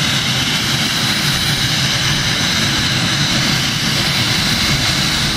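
Four gas turbine engines of a pulling tractor running together, a loud, steady jet-like noise with a high whine on top.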